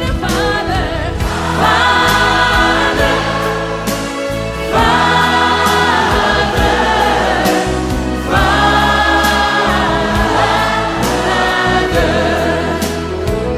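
Worship song music with a choir singing long held notes over steady bass, in three phrases that begin about two, five and eight seconds in.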